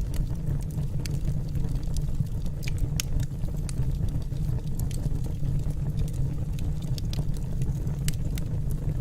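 Wood fire burning in a fireplace: a steady low rumble with scattered, irregular sharp crackles and pops from the burning logs.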